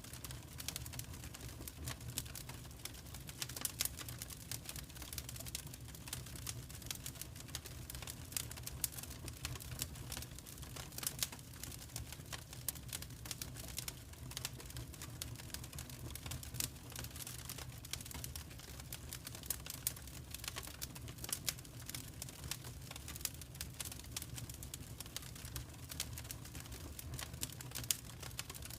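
Fire crackling in a fireplace: frequent, irregular sharp pops and snaps over a steady low rumble.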